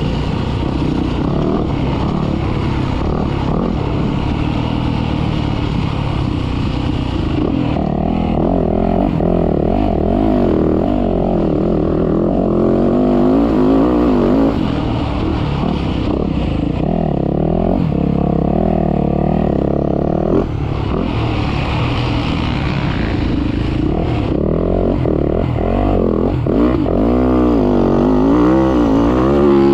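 Motocross dirt bike engine being ridden hard, revving up and easing off over and over, its pitch swinging up and down without a break.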